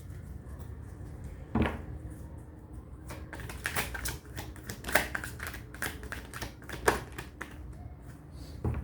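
Tarot cards being shuffled and handled: a run of quick, irregular card clicks, with a few sharper knocks along the way.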